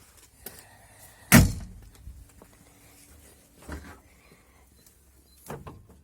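A car's door slammed shut with one loud metal thunk about a second and a half in, followed by two fainter knocks near the middle and near the end.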